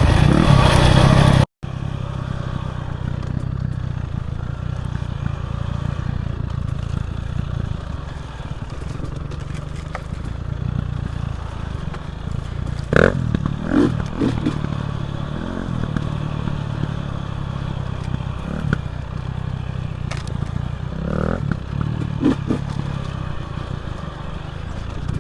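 Dirt bike engine running steadily along a single-track trail, with a few sharp clattering knocks from the bike over rough ground. A louder stretch cuts off abruptly about a second and a half in.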